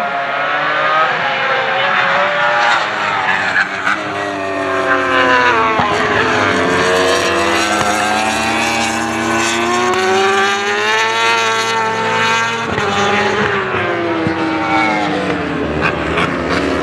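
Several racing superbike engines at high revs, their pitches climbing and falling and overlapping as the bikes accelerate, brake and pass.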